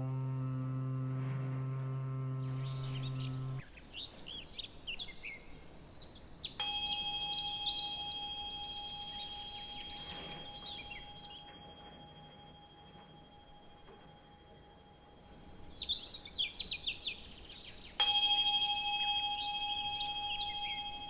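Struck bell tones in a meditation sound bath. A bell is struck twice, about six seconds in and again near the end, and each time it rings out slowly in one clear tone with higher overtones. Songbirds chirp between and over the strikes, and a low held drone stops abruptly about three and a half seconds in.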